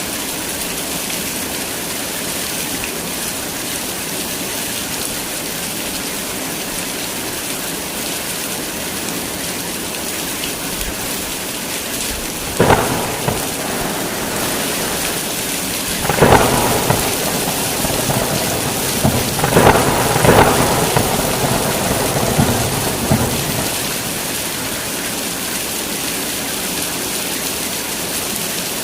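Steady heavy rain with thunder: a sharp clap a little before halfway, then more claps and rolling rumbles over the next ten seconds or so, fading back to the rain alone near the end.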